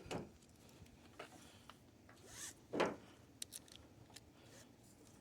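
A few brief handling sounds: a short swish at the start, a louder zip-like swish a little before three seconds in, then a few light clicks.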